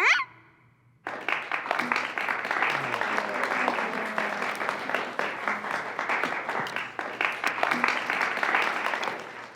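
Audience applauding, starting about a second in and fading out near the end. A short rising whistle-like call ends right at the start.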